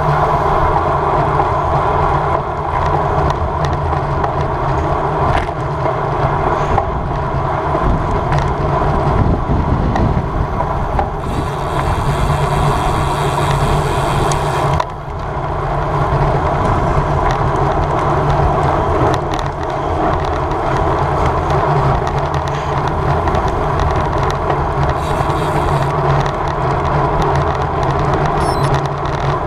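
Road bicycle riding at race speed: steady rush of wind on the microphone with tyre and road noise, the hiss growing stronger for a few seconds near the middle.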